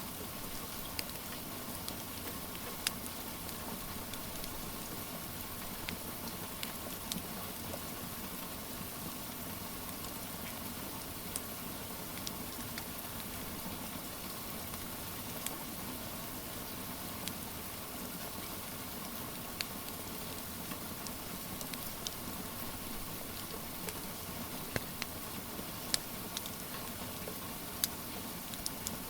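Steady rain with a wood fire crackling: an even hiss of rain under scattered sharp pops and snaps from the burning logs.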